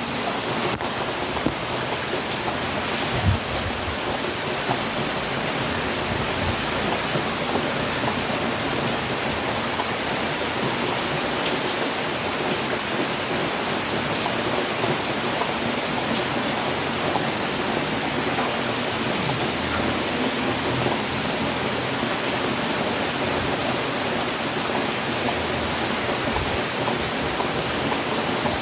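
Steady rain falling on a house roof, an even hiss with no let-up.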